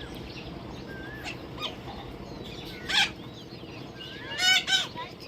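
Baby parrot chirping and squawking: short whistled chirps, a loud harsh squawk about three seconds in, and a louder rasping run of calls near the end.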